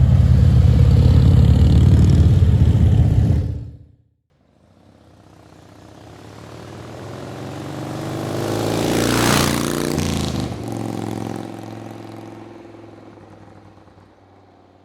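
Motorcycle engines running loud and close, cutting off abruptly about four seconds in. Then a vehicle approaches, passes about ten seconds in with its engine note dropping, and fades away.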